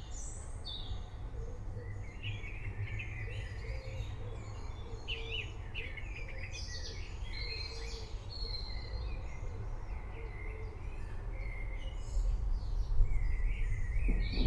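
Several songbirds chirping and singing in short phrases over a steady low rumble, which grows louder near the end.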